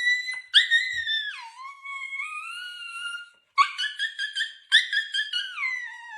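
A dog whining and howling in a run of long, high notes that slide downward in pitch, with a choppier stretch about midway.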